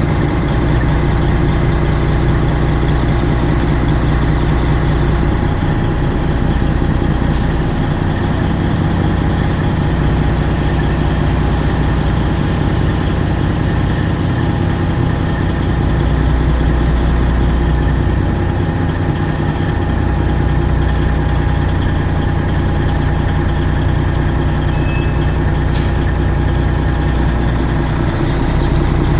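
Straight-piped Detroit Diesel 12.7 engine of a Freightliner Classic XL idling steadily.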